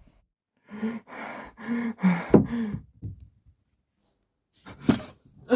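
A person's short, strained gasps and groans, about five in quick succession, some falling in pitch, then a pause and a sharper cry near the end: sounds of distress after the bite.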